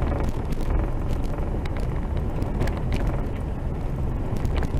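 Vehicle driving on a rough dirt road: a steady low rumble of engine and tyres, with scattered small knocks and rattles.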